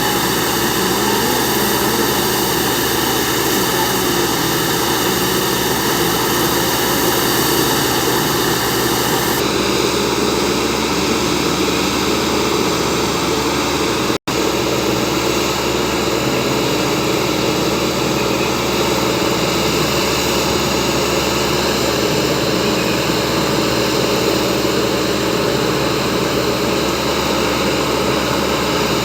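Diesel engine and hydraulics of a T-28 points-and-crossing tamping machine running steadily at work, loud and unbroken apart from a momentary cut about halfway through.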